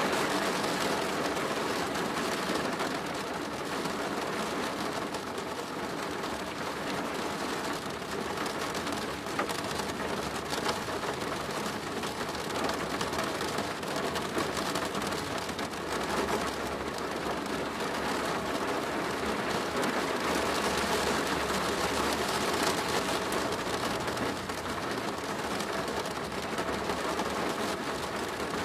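Steady rain falling on a plastic roof, a dense, even patter of drops. A faint low rumble swells in the middle.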